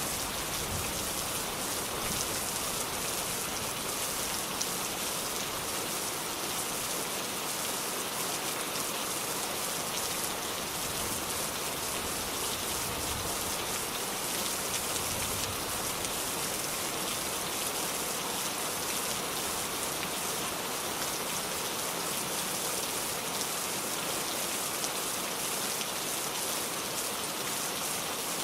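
Steady rain falling: a dense, even patter of drops that does not let up.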